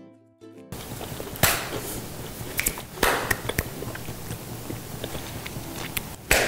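A person biting and chewing crisp fried quail, with sharp clicks about a second and a half in, about three seconds in, and a louder one near the end, over a steady room hiss.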